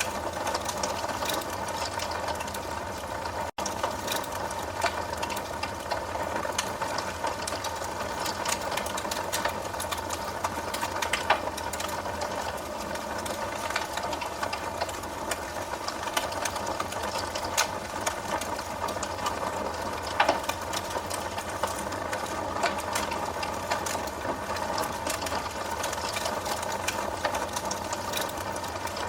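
Wood fire crackling in a fireplace: a steady, dense patter of small crackles with a few louder pops, the loudest about 11 and 20 seconds in. The sound cuts out for an instant about three and a half seconds in.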